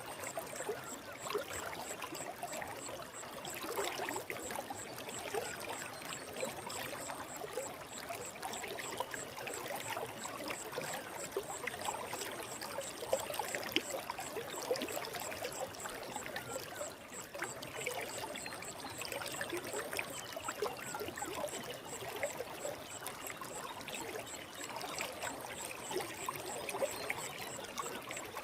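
Forest stream flowing: a steady babbling and trickling of water, full of small bubbling splashes.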